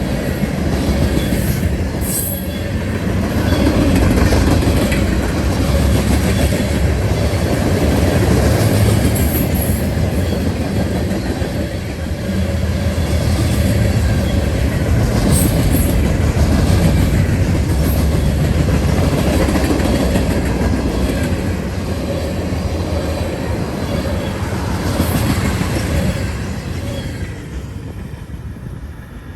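A train rolling past at close range: a steady rumble of wheels on rail, with brief high wheel squeals four times, fading near the end.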